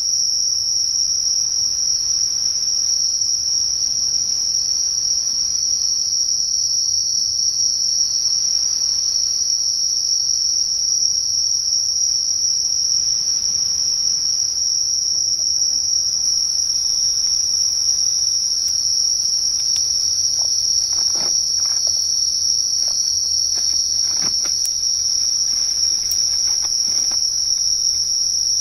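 Night insect chorus: a loud, steady, high-pitched shrill drone that holds one pitch throughout. A few short rustles and knocks come in the last third, from camp gear being handled.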